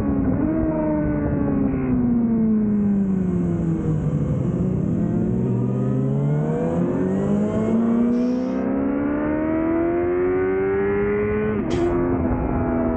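The inline-four engine of a 2005 Yamaha R6 sportbike, fitted with a Laser aftermarket exhaust, heard from on board at track speed. The revs fall as the bike slows for a corner, then climb steadily for several seconds as it drives out. A quick upshift near the end drops the pitch suddenly.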